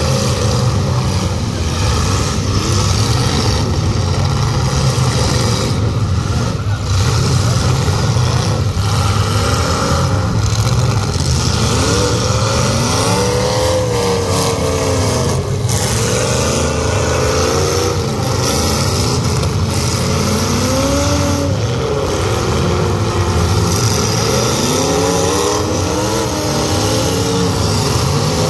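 Several demolition derby cars' engines revving up and down at once over a steady low rumble, the pitches rising and falling every second or two as the drivers accelerate, reverse and ram.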